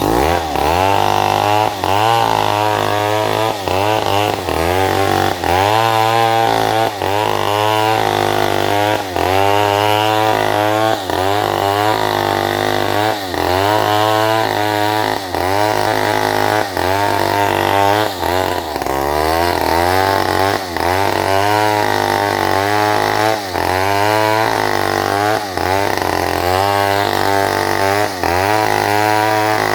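Chainsaw cutting salam wood, its engine pitch dipping and recovering in a regular rhythm roughly once a second as the chain works through the timber.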